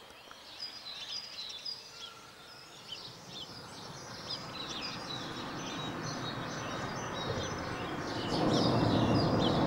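Many small birds chirping and twittering, with a low rushing noise that swells from a few seconds in and grows louder near the end.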